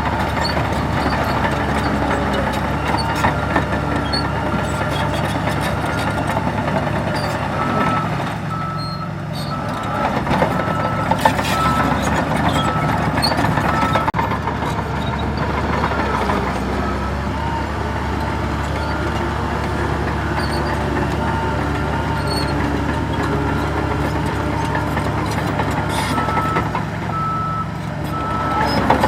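Heavy construction machinery's diesel engine running steadily, with a reversing alarm sounding a repeated single-pitched beep while a machine backs up.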